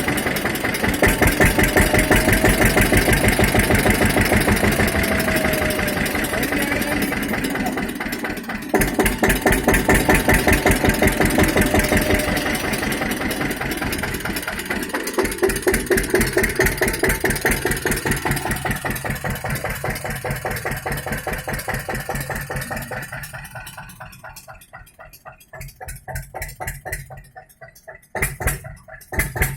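Tractor diesel engine running steadily with a fast, even pulse. It drops away to much quieter about three quarters of the way through, then comes back up near the end.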